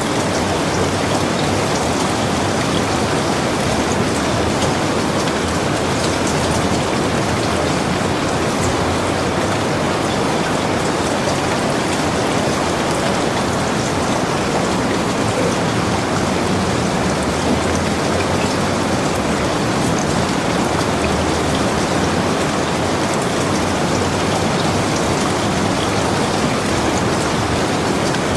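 Heavy rain falling steadily, a dense, even hiss of drops with many small ticks of drops striking surfaces close by.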